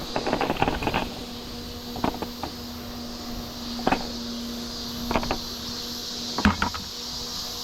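Steady hum of the small battery fans in a fan-cooled work jacket (kuchofuku). Short rustles and knocks come in a cluster near the start, then singly every second or so.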